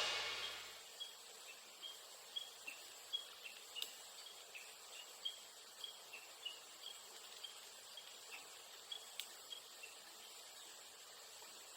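Faint outdoor ambience of small chirps repeating irregularly, about two or three a second, over a steady faint high whine, typical of insects calling. In the first second the tail of a loud crash-like sound fades out.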